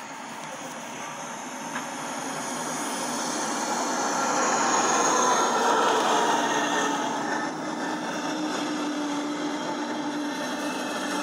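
A train passing: rail noise swells to a peak about halfway through with a slightly falling tone, then eases into a steady running sound with a constant low hum.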